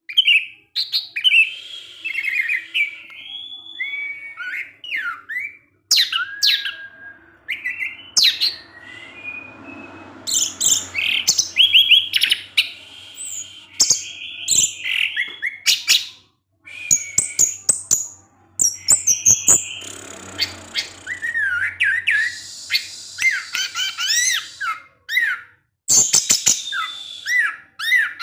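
Orange-headed thrush (anis merah) singing a fast, varied song of whistled glides and rapid chipping notes, broken by brief pauses between phrases.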